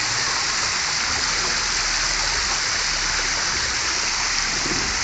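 Sea surf on a beach: a steady rushing hiss of water.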